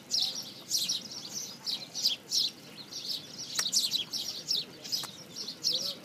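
Birds chirping, a steady stream of quick, high, overlapping chirps.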